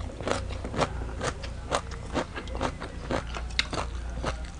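Crisp, crunchy chewing of a mouthful of shredded green mango salad, about two crunches a second at an even pace.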